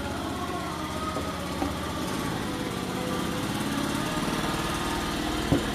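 A small motor or engine running steadily with an even, pulsing hum.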